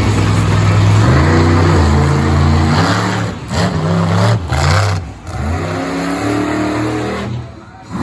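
Monster truck engine revving hard, its pitch rising and falling with the throttle. It cuts out briefly twice, about three and a half and five seconds in, and falls away near the end.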